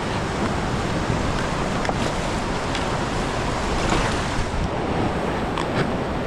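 River water rushing steadily, with a few brief splashes.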